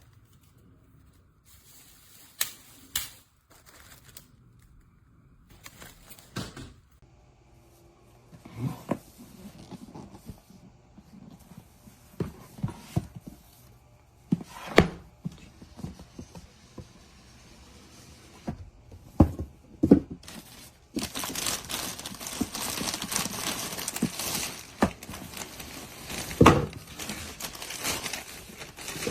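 Packaging and parts being handled: plastic crinkling and tearing, with scattered knocks and clicks, then denser continuous crinkling over the last several seconds.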